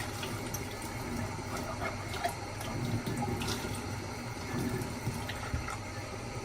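Tap water running into a kitchen sink while dishes are washed by hand, with light clinks of dishes throughout.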